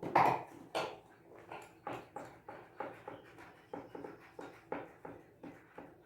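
Hand ratchet tightening the seat bolts under the rear fender, clicking in short strokes about three a second.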